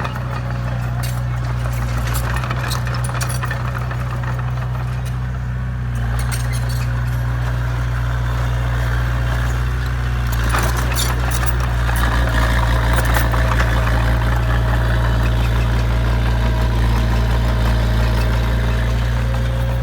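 Heavy diesel engine running steadily with a deep, even hum, working a little harder about ten seconds in.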